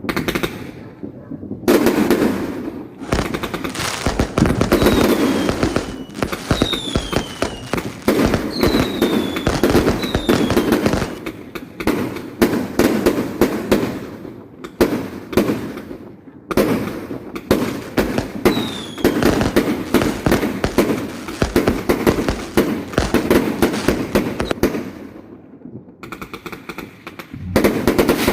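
New Year fireworks going off in long runs of rapid bangs and crackles, with short lulls. Several short falling whistles sound over the bangs in the first half and once more later.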